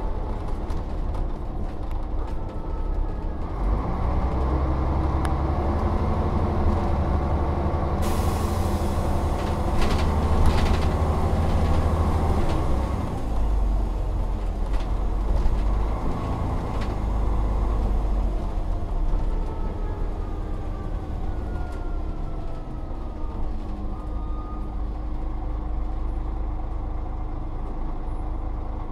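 Volvo Olympian double-decker bus engine pulling under load, its pitch rising and stepping through gear changes, with a long hiss of released air from the air brake system about eight seconds in. Later the engine note winds down with falling whines as the bus slows.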